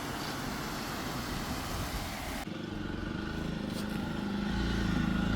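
An engine running steadily. About halfway through, an abrupt cut swaps a rushing noise for the engine's steady low hum, which grows louder near the end.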